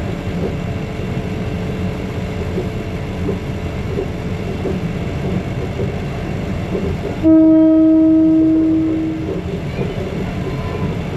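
Maeklong line commuter train running with a steady rumble of wheels on the rails. About seven seconds in, the train horn gives one long single-note blast of about two seconds that tapers off.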